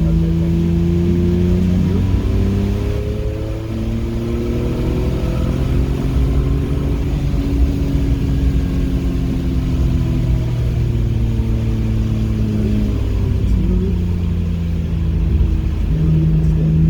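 Car engine running under load through corners, its pitch climbing and stepping down several times as the throttle and gears change, over a steady low rumble of road noise.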